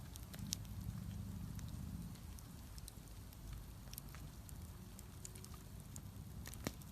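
Campfire crackling, with scattered sharp pops and snaps over a faint low rumble.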